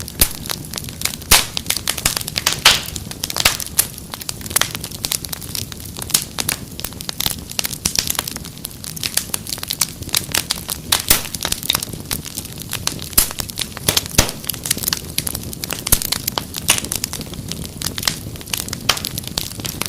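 Wood fire crackling steadily, with dense irregular pops and snaps over a low rumble of burning.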